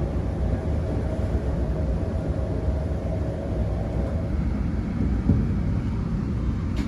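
Steady low rumble of a passenger train idling at the platform, with a single short knock about five seconds in.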